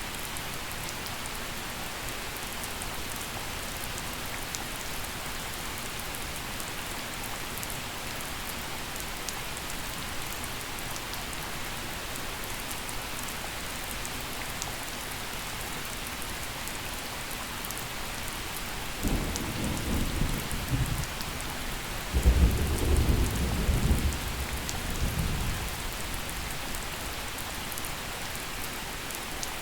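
Steady gentle rain falling, with a roll of thunder about two-thirds of the way through: a low rumble that starts, then a louder crack-and-rumble a few seconds later that dies away over a few seconds.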